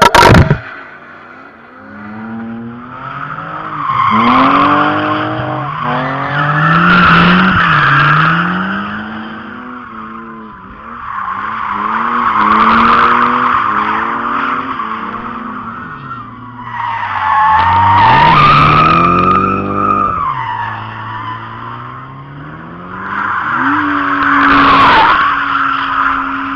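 Drift cars sliding with long tyre squeals while their engines rev up and down, in several swells that rise and fade as the cars pass. A brief loud crackle opens the stretch.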